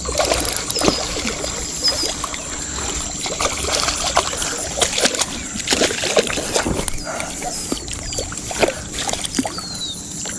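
A hooked bass splashing at the water's surface as it is reeled in toward the bank, with irregular splashes and sloshing.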